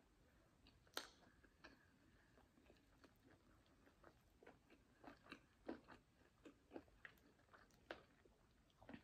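Faint, close-up eating sounds of jerk chicken: short wet clicks and smacks from chewing and from fingers pulling the meat apart, scattered irregularly, with the sharpest click about a second in.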